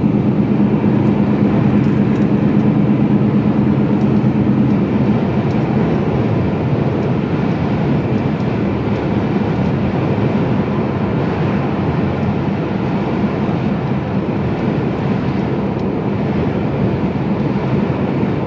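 Mercedes-Benz Actros truck's diesel engine and road noise droning steadily inside the cab at motorway speed. The engine hum fades about five seconds in, leaving a steady rumble.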